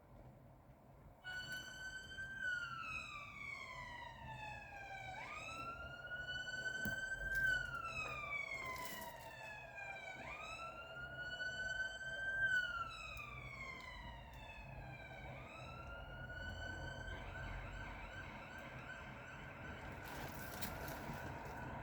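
Ambulance siren sounding a slow wail, each cycle rising quickly and falling slowly, about three times. About two thirds of the way in it switches to a fast warbling yelp. Traffic rumbles underneath.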